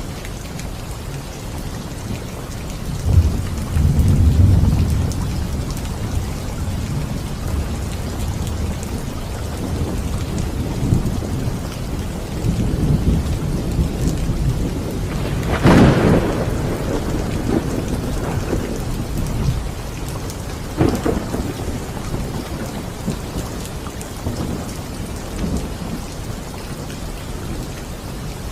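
Steady rain falling, with thunder: low rumbles a few seconds in, a sharper thunderclap a little past halfway, and a smaller crack of thunder a few seconds after it.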